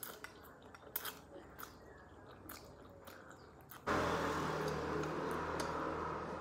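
Quiet chewing of noodles with a few sharp clicks. About four seconds in, a loud steady rushing noise with a low hum starts suddenly and keeps going.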